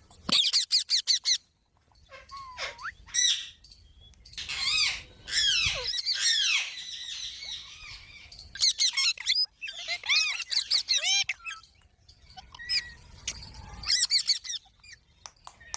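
Pet parrot calling: bursts of rapid, high-pitched chirps and squeaks, with a longer, harsher stretch of squawking about five seconds in.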